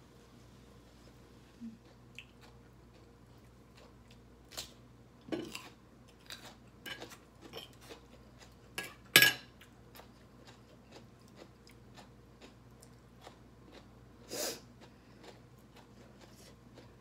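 A person eating a spicy shredded salad with rice noodles, close to the microphone: irregular chewing with wet mouth clicks and smacks. A sharp clink of dishes comes about nine seconds in, the loudest sound.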